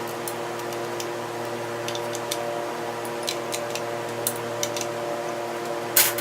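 Scattered light clicks and ticks of metal parts and hand tools being handled while a VW engine case is bolted together, with one louder clack near the end, over a steady hum.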